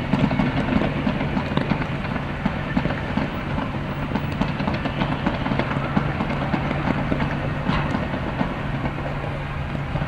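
Fireworks display going off as a dense, continuous crackle of many small bursts, with a steady low hum underneath.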